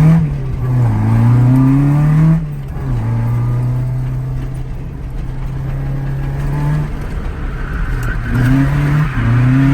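Toyota AE86's BEAMS 3S-GE twin-cam four-cylinder engine running hard during a drift run, its pitch rising and falling with the throttle. The revs drop sharply about two and a half seconds in, hold steady for about four seconds, then dip and climb again near the end.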